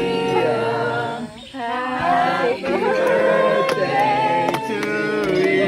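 Several voices singing together in long held notes that step up and down in pitch, with a short break about one and a half seconds in.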